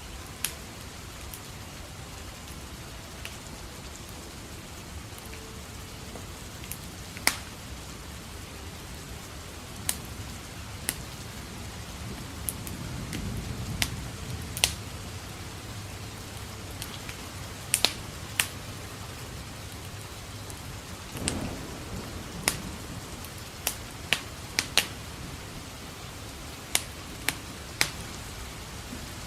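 Steady rain with a wood fire crackling: sharp single pops scattered irregularly through the rain, and a low rumble of distant thunder swelling briefly in the middle.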